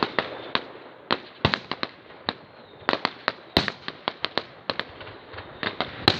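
Fireworks display: an irregular run of sharp bangs and crackling pops, often several in quick succession, over a steady hiss.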